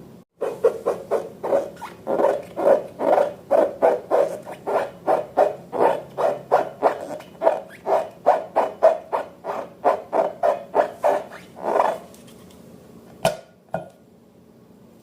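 Slime being squeezed and worked by hand: a long run of rhythmic wet squelches, about three or four a second, that stops about twelve seconds in. Two sharp clicks follow shortly after.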